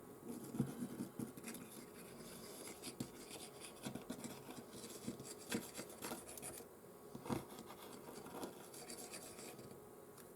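Close-up handwork on a smartphone: irregular light scratching and rubbing with small clicks, as parts and tools are worked over the phone's frame.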